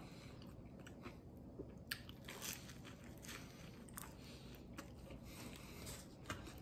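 Faint close-up chewing and biting of pizza crust dipped in garlic butter sauce, with scattered soft crunches and wet mouth clicks.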